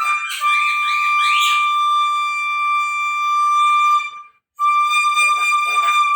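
Bangdi (Chinese bamboo flute) holding one long high note over instrumental backing. All the sound drops out for about half a second about four seconds in, then the flute takes up the same note again.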